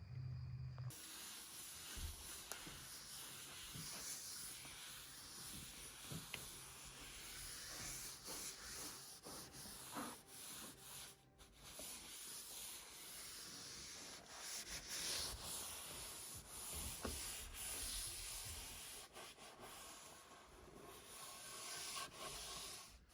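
A soft, uneven scratching and rubbing noise that swells and fades, with scattered small clicks.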